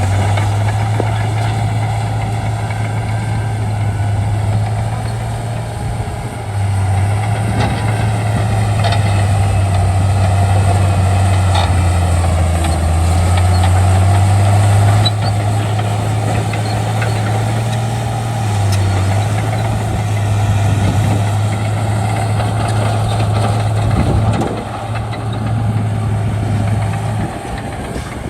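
Shantui bulldozer's diesel engine running, its low, steady drone shifting in pitch and level several times.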